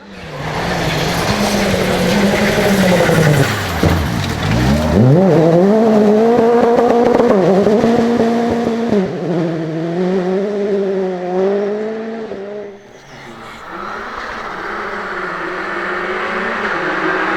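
Rally car engine running hard on a stage. Its pitch drops steeply about four seconds in as the car brakes and downshifts, then climbs again under full acceleration, with smaller dips at gear changes. The engine note fades about two-thirds of the way through, then builds again near the end.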